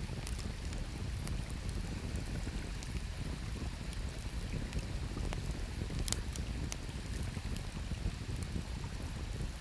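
Campfire wood crackling, with a few sharp pops scattered through, over the steady low rush of flowing river water.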